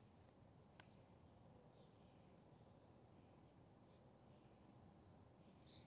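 Near silence: faint outdoor ambience in which a small bird chirps three times, each a quick run of two or three short downward notes, with a faint click about a second in.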